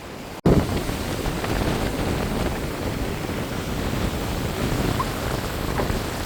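Steady rushing noise of surf and wind on the microphone, starting abruptly about half a second in.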